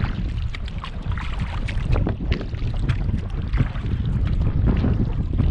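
Wind buffeting the microphone with a heavy, gusty low rumble, over the splashing and dripping of kayak paddle strokes in the water.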